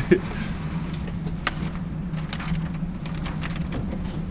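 A steady low hum with a few light clicks and knocks, the sharpest one right at the start.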